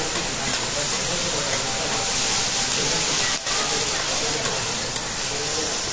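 Shredded cabbage sizzling on a hot steel teppanyaki griddle, a steady hiss as metal spatulas toss it, dropping out for an instant about halfway through.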